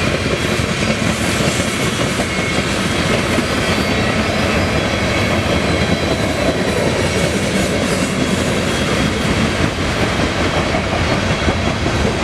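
Loaded coal train's hopper cars rolling past, a steady noise of steel wheels on the rails; full cars run relatively quietly compared with empties.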